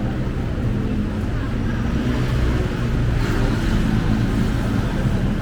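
Street traffic: a steady low rumble of vehicle engines on a busy city road.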